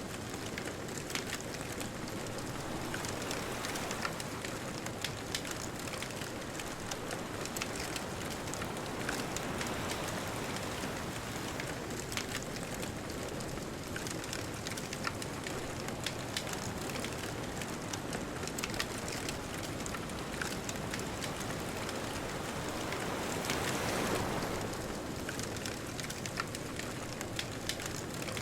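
Bonfire crackling, with frequent sharp snaps over a steady rush of distant ocean waves; one wave swells a little louder near the end.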